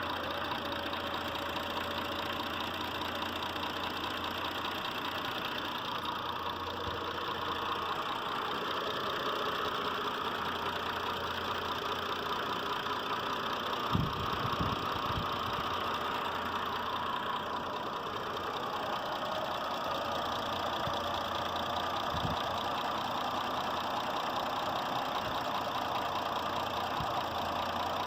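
Mitsubishi Pajero IV's 6G72 3.0-litre V6 petrol engine idling with a knock that sounds like diesel clatter. A short cluster of low thumps comes about halfway through, and another thump follows later.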